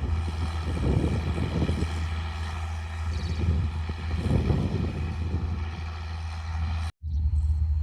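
Straight-piped John Deere 4630's six-cylinder turbo diesel running at a steady deep drone. The sound cuts out for an instant about seven seconds in, then resumes.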